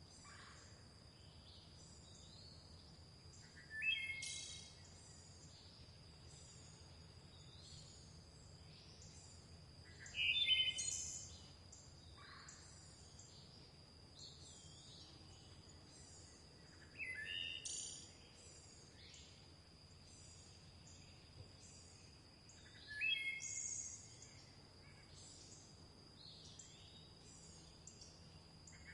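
Songbirds singing outdoors. One bird repeats a short song phrase of a few quick notes about every six seconds, over a steady high-pitched tone and faint, rapid high chirps.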